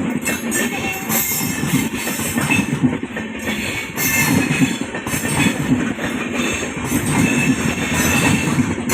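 Golconda Express train running on the rails, a steady loud rumble and rattle of wheels on track.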